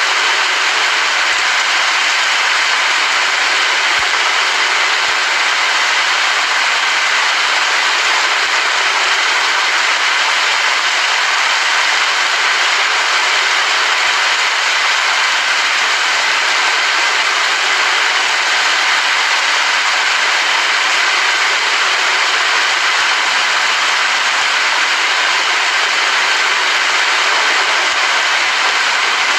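Rain falling steadily: an even, unbroken hiss that holds the same level throughout.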